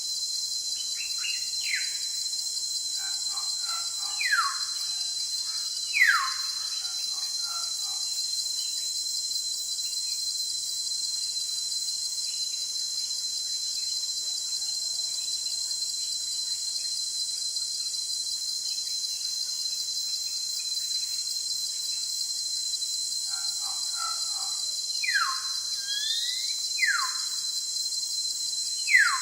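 Steady high-pitched insect chorus with bird calls over it: clear whistled notes that slide sharply down in pitch, a few between about one and seven seconds in and again near the end.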